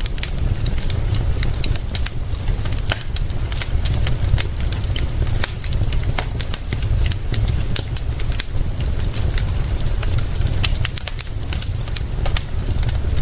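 Wood fire crackling with frequent sharp pops and snaps, over a steady low rumble.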